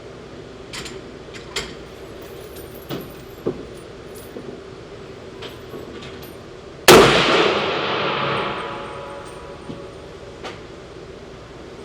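A single 300 Blackout rifle shot about seven seconds in, a sharp crack whose echo trails off over about two seconds. A few light clicks and clinks come before it.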